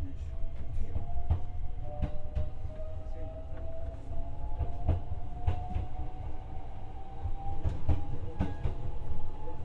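JR West 125 series electric railcar running, heard from inside: a low rumble of wheels on rail with scattered sharp clicks, and a thin whine slowly rising in pitch as the train gathers speed.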